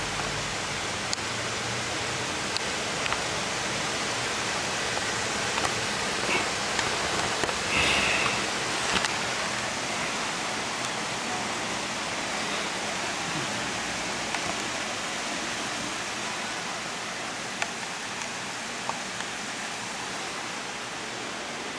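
Steady rain falling, a not very heavy rain, making an even hiss with scattered small drip clicks. A brief louder noise comes about eight seconds in.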